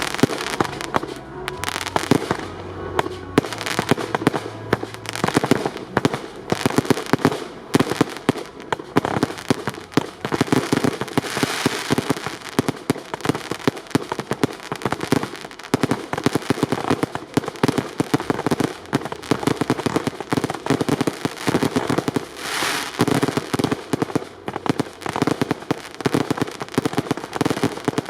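Fireworks display: a dense, continuous barrage of bangs and crackle from shells and batteries going off in quick succession.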